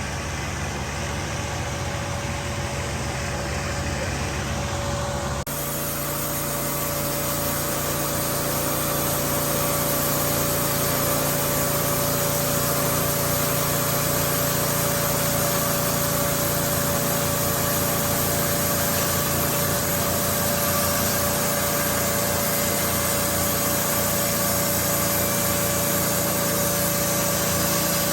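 Wood-Mizer LT15 band sawmill running steadily under its engine. About five seconds in the sound turns noisier and grows louder as the band blade runs through the log, then holds steady.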